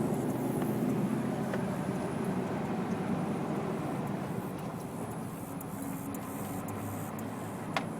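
Steady low rumble of a vehicle driving slowly, heard from inside it, easing slightly partway through, with a single sharp click near the end.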